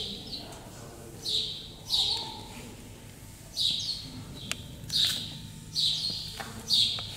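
A small bird chirping repeatedly: short high calls, each dropping in pitch, coming about once a second and sometimes in quick pairs.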